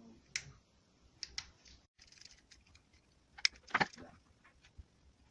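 Scattered small clicks and taps of the little parts of a jigsaw's speed-control trigger switch being handled and fitted together, with the loudest cluster of clicks about three and a half seconds in.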